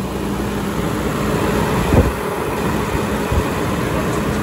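BMW 740i E38's 4.4-litre V8 running steadily at idle soon after a cold start. A short knock about halfway through is the loudest moment, with a smaller one a little later.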